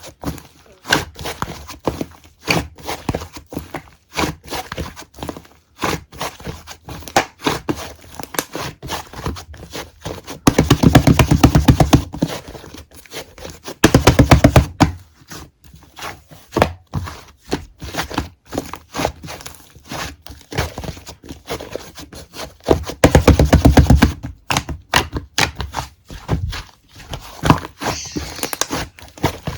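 Fingertips poking and tapping a soft, squishy object: irregular crisp taps, with three bursts of very rapid tapping about ten, fourteen and twenty-three seconds in.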